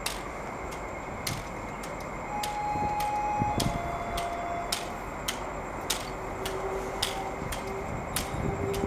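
NJ Transit passenger train running past on a far track: a steady rumble with a sharp, regular clicking about twice a second, and a few brief steady tones partway through.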